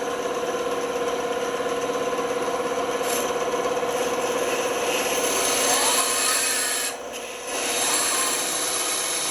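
Band saw running and cutting through wood, rounding off a small wooden piece, with a short lull about seven seconds in before the cut picks up again.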